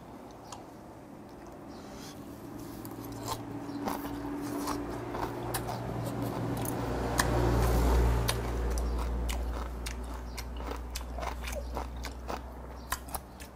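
Close, wet chewing and crunching of raw mudskipper sashimi, with many small mouth clicks and chopstick taps. A low rumble swells in the middle and fades again.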